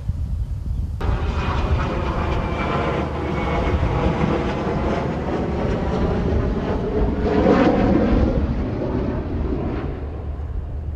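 Aircraft flying past: a rushing engine sound that comes in suddenly about a second in, swells to its loudest about two-thirds of the way through, then fades. A low wind rumble on the microphone runs underneath.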